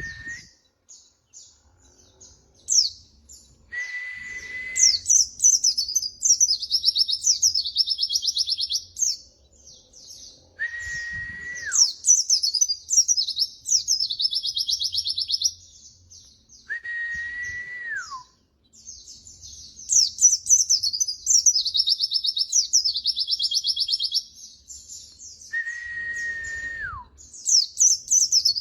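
Pleci (white-eye) song: long bursts of fast, high twittering, repeated phrase after phrase. About four times, a separate lower whistle is held for about a second and slides down in pitch at its end.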